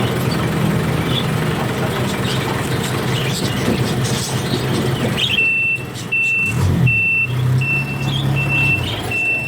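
Truck engine running, then from about five seconds in a reversing alarm sounds: short, high, even beeps a little under two a second over the engine hum.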